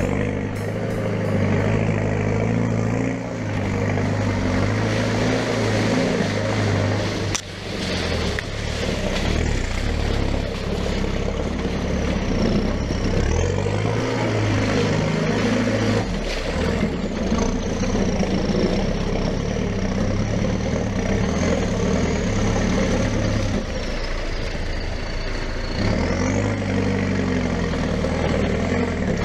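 Land Rover Defender 90's engine running and revving up and down as it drives a muddy, rutted off-road track, with a sharp knock about seven seconds in.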